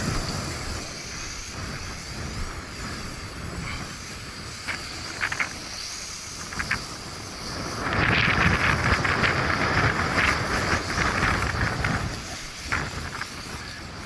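Small quadcopter's motors whining high and steady in gusty wind, with wind buffeting the microphone, loudest for a few seconds past the middle. A few short clicks.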